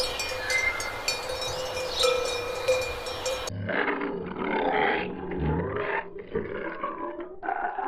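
A steady hum with short bird chirps over an outdoor background. About three and a half seconds in, a cut brings in an animal's repeated low grunts and growls.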